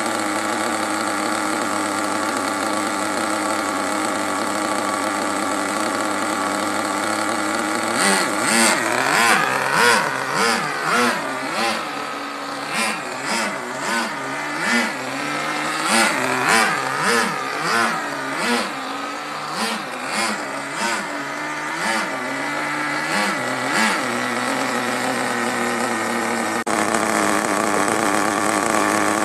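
Small nitro (glow-fuel) engine of an HSP Backwash RC buggy running steadily, then revved in quick repeated throttle blips, about one a second, for roughly fifteen seconds. Near the end it jumps to a steady higher speed.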